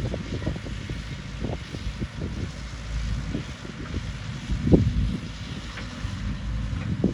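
Heavy earthmoving machinery running with a low rumble and irregular clanks, with one louder knock about four and a half seconds in.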